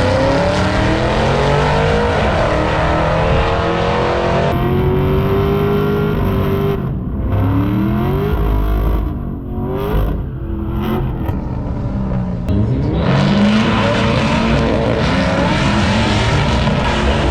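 Race cars at a drag strip accelerating hard, their engines climbing in pitch in repeated rising sweeps as they run through the gears. The sound changes abruptly several times, as though stitched together from short clips.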